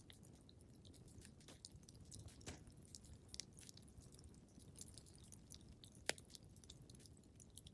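Wood fire crackling quietly: irregular small pops and snaps over a low, steady rumble, with one sharper pop about six seconds in.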